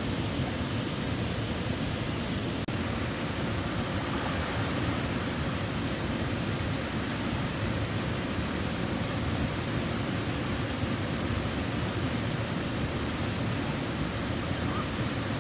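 Waterfall: a steady, even rush of falling water, with a momentary dropout about three seconds in.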